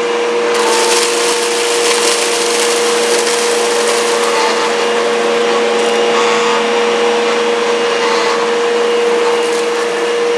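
Bissell upright bagless vacuum running with a steady high motor whine, its power-head brush spinning on a bare floor. From about half a second in, debris crackles and rattles as it is sucked up.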